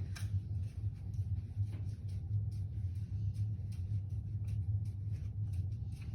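Birdseed mixture being patted and pressed into a bowl by hand, with faint scattered clicks and rustles of seed, over a steady low hum.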